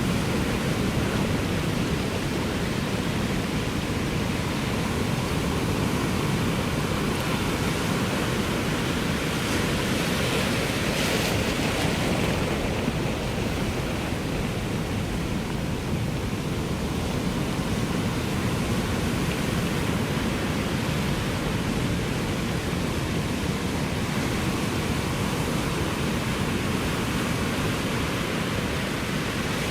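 Ocean surf washing onto a shore in a steady, continuous rush, with a brighter surge about ten to twelve seconds in as a wave breaks.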